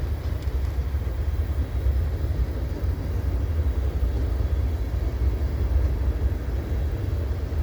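Freight cars of a CN mixed freight train rolling past, a steady low rumble.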